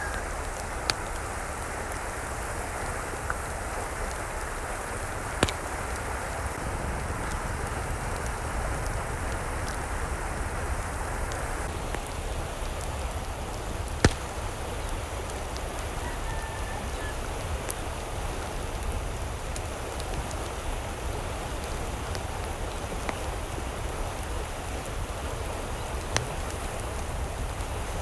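Steady rush of water, with a few sharp ticks scattered through it.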